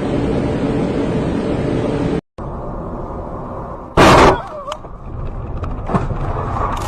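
Car engine and road noise heard from inside a moving car, cut off abruptly about two seconds in. After it, a loud, short bang about four seconds in, typical of a vehicle collision, followed by lighter knocks near the end.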